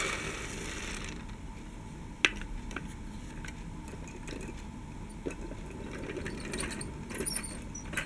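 Scattered clicks and light rattles of small diecast and plastic toy vehicles being handled, with one sharp click about two seconds in and a brief hissy rush at the start.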